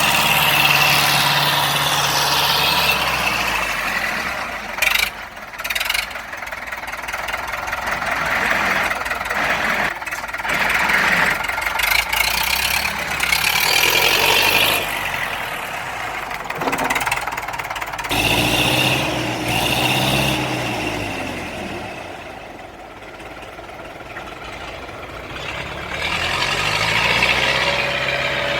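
Universal U650 tractor's diesel engine running, its speed rising and falling several times.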